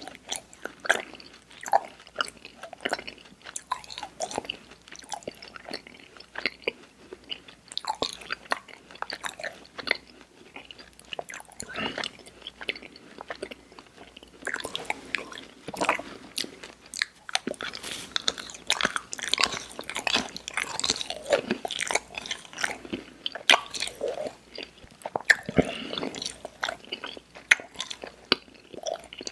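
Close-miked chewing of soft, chewy sour candy: wet mouth smacks and clicks at an irregular pace, busier in the second half.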